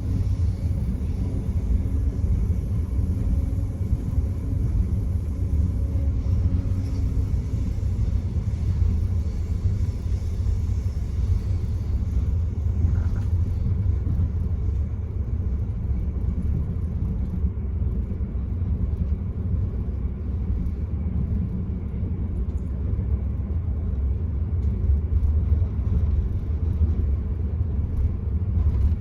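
Steady low rumble of the Enterprise passenger train running along the line, heard from inside the carriage.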